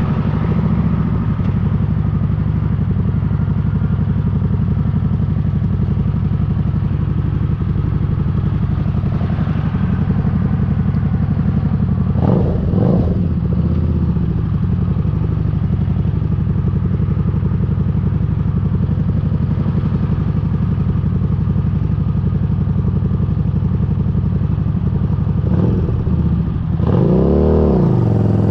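Motorcycle engine running steadily while riding, with the engine note rising and falling twice, about twelve seconds in and again near the end.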